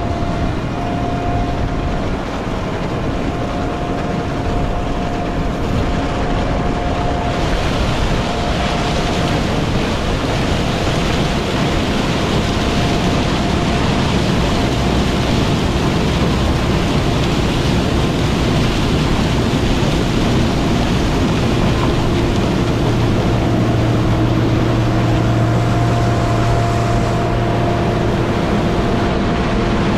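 Heavy diesel harvest machinery running steadily under load, with a constant mechanical whine over the engine. The sound grows brighter a few seconds in, and a deeper hum builds past the middle.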